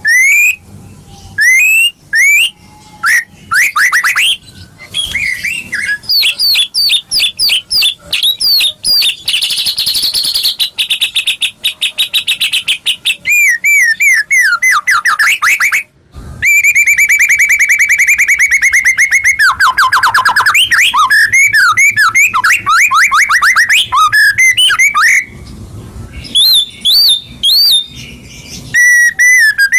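Songbird singing in fast, varied phrases: runs of rapidly repeated chirps and sweeping whistles, with a brief break just before the middle and a long, even rapid trill after it. It is a birdsong lure recording of the kind played to set a white-rumped shama singing.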